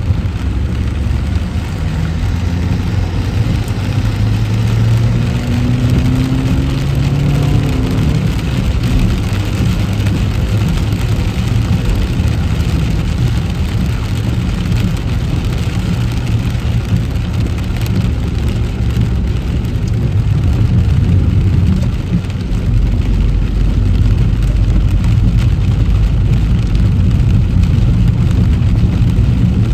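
Car driving in heavy rain: a steady hiss of rain and wet road under the tyres over the low hum of the engine, which rises in pitch as the car speeds up a few seconds in. The low rumble grows heavier for the last several seconds.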